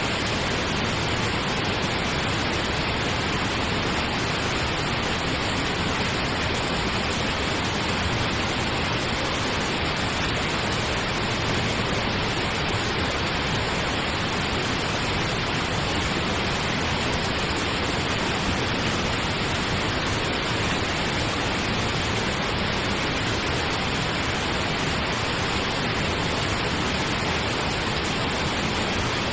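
Steady pink noise, an even hiss with no changes.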